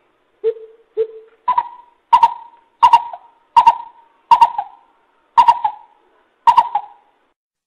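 Coucal (bubut) calling a series of hollow hooting notes: two low hoots, then seven higher hoots spaced a little under a second apart.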